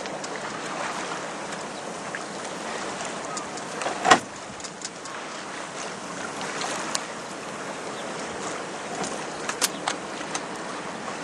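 Water rushing and splashing along a sailing yacht's hull as it moves under sail, a steady wash. A single sharp knock about four seconds in, and a few light clicks near the end.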